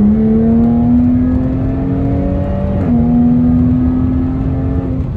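Jaguar F-Type's supercharged 3.0-litre V6 under full-throttle acceleration, heard from inside the cabin. The engine note climbs steadily and drops sharply on two upshifts, one right at the start and one about three seconds in, then climbs again until the driver lifts off near the end.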